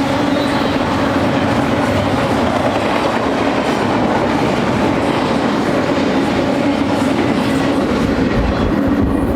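Freight train cars rolling past on steel rails: a loud, steady running noise of wheels on track with a low hum through it.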